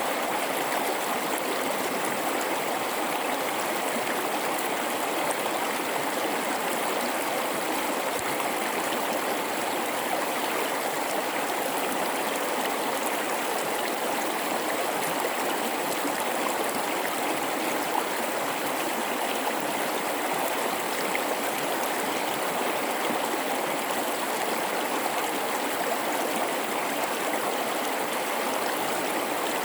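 Gorge river water babbling and rushing in a steady, even stream.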